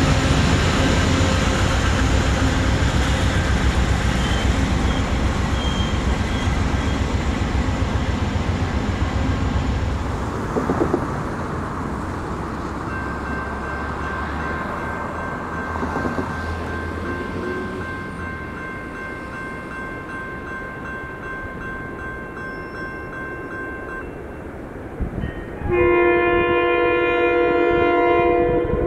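A GE Genesis P42DC diesel locomotive runs into the station with a steady engine rumble. After that comes a grade-crossing bell ringing steadily, then, about three seconds before the end, a locomotive air horn sounding a loud multi-note chord.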